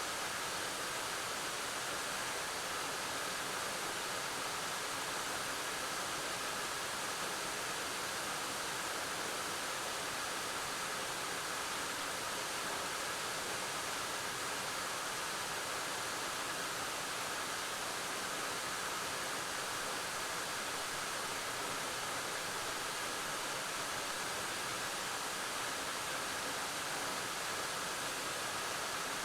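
Waterfall pouring steadily: an even rush of falling water that never changes or breaks.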